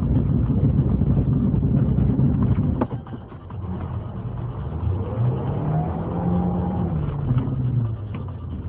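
Car engine and road rumble, with the engine note rising as it speeds up from about five seconds in. A single sharp click comes about three seconds in.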